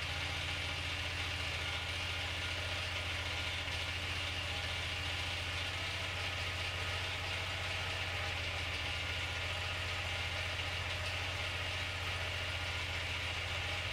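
Small gasoline engine of a home-built mini skid steer (a Loncin engine) idling steadily with a low, even hum.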